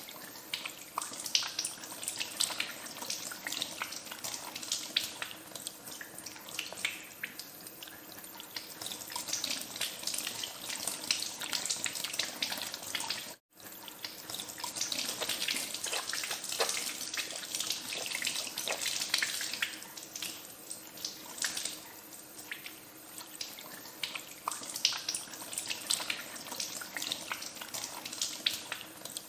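Tap water running into a sink while hands are washed under it, with irregular splashing and spattering that rises and falls. The sound cuts out for an instant about halfway through.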